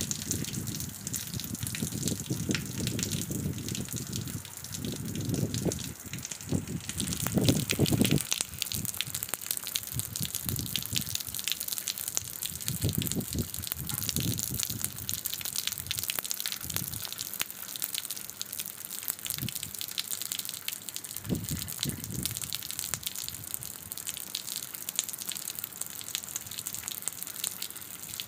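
Heavy rain falling on a flooded concrete yard, with water streaming down beside a wall and splashing onto the wet floor. Gusts of wind buffet the microphone with low rumbles, strongest in the first eight seconds and briefly now and then after.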